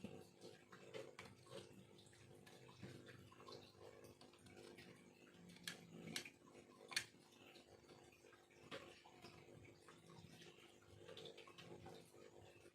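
Faint scraping and a few sharp clicks of a small knife carving bamboo, over a steady low hum.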